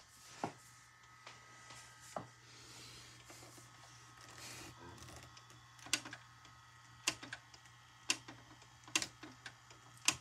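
Faint, irregular sharp clicks, about one a second and most frequent in the second half, over a steady low hum.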